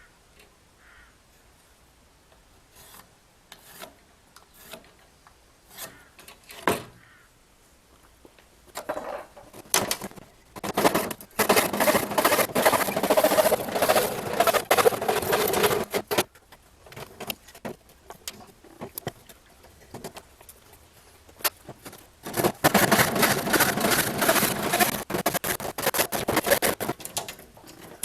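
Scrap wood being worked by hand: a few light knocks and taps as pieces are handled, then two stretches of continuous scraping on wood, each about five seconds long.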